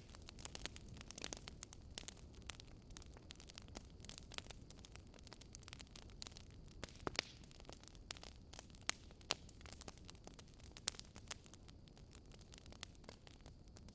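Wood fire burning in a fireplace, crackling with irregular sharp pops, a few louder ones among them, over a low steady rumble.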